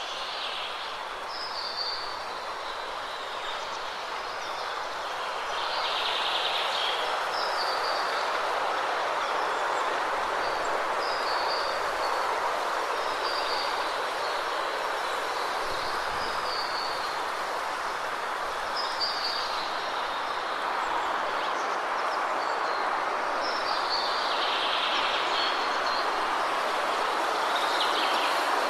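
Waterfall rushing steadily, with birds chirping in short high calls over it throughout; the water grows a little louder about five seconds in.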